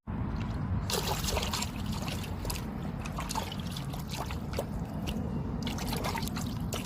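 Water trickling, with many small drips and splashes.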